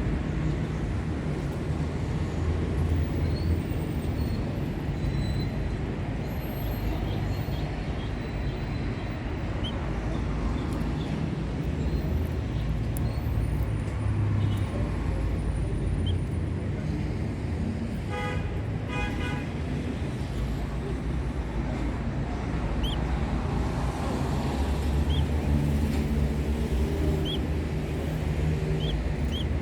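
Steady rumble of road traffic, with two short horn toots about two-thirds of the way through. Faint short high chirps come through now and then, from the canaries.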